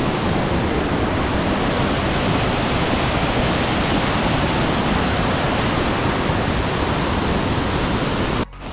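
Rushing water from a waterfall or fast mountain stream: a loud, steady roar that cuts off suddenly near the end.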